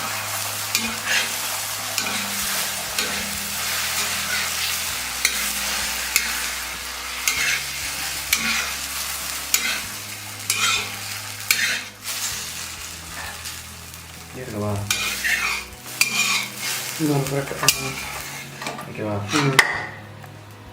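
Egg kalakki sizzling in a hot pan while a metal spatula stirs and scrapes it. Sharp clicks of the spatula against the pan come again and again over the sizzle.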